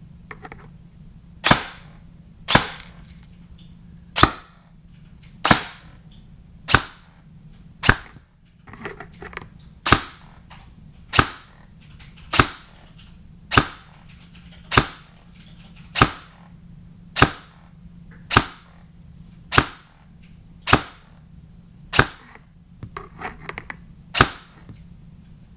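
KWA SR10 airsoft rifle firing single shots of 0.3 g BBs, eighteen in all, about one every 1.2 seconds, for a chronograph FPS consistency check on an R-hop bucking.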